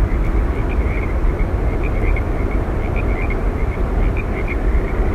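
Steady rushing roar of Yosemite Falls, heaviest in the low end, with many short high chirps scattered over it.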